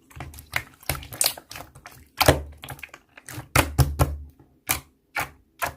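Slime being pressed and squeezed by hand: an irregular run of sticky clicks and soft thumps, a dozen or more in quick succession.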